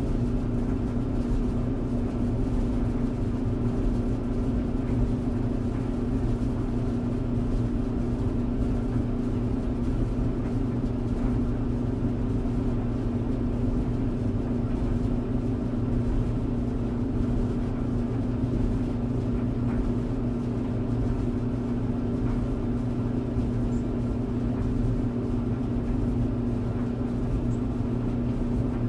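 Tumble dryer running steadily: an even motor hum with a low rumble beneath, unchanging throughout.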